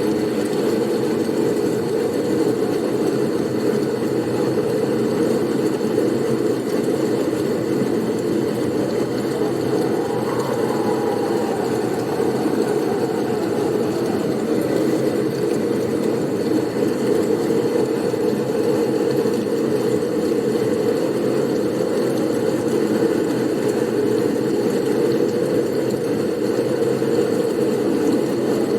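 Steady low blizzard wind noise, a dense unbroken rumble, with a faint whistling rise and fall about ten seconds in.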